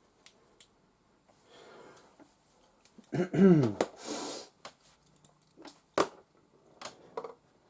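A person's short falling vocal sound about three seconds in, followed at once by a sharp breath-like burst of air. A few small clicks follow, the clearest near six seconds.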